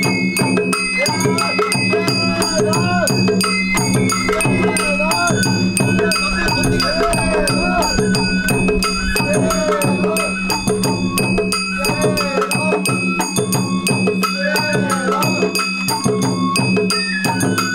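Live Sawara bayashi festival music from a float's hayashi ensemble. A bamboo flute plays a bending, ornamented melody over steady drum strokes and ringing metal percussion.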